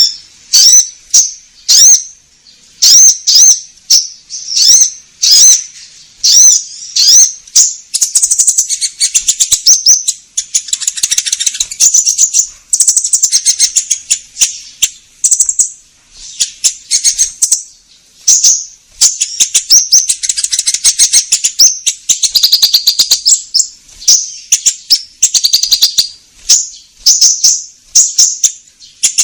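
Konin bird song, a recording played as a lure to set other birds singing. It opens with short, high, repeated call notes about twice a second, then from about eight seconds in turns to a fast, continuous chattering warble.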